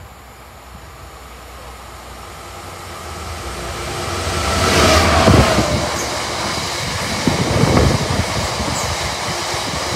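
Class 66 diesel freight locomotive approaching and passing at speed, growing louder to a peak about five seconds in, its pitch falling as it goes by. Then loaded box wagons rumble and clatter past over the rail joints.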